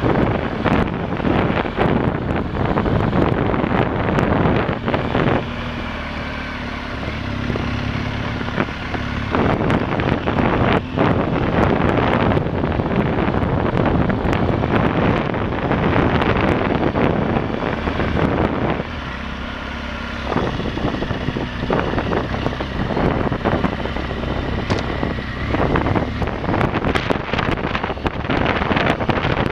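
Motorcycle engine running under heavy wind buffeting on the microphone. About six seconds in, and again around two-thirds through, the wind noise drops for a few seconds and the engine's steady hum comes through.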